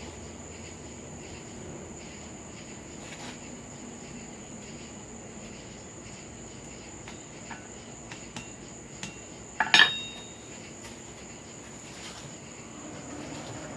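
A steady high drone of crickets, with a few light metal taps, then one loud ringing hammer strike on steel just before ten seconds in.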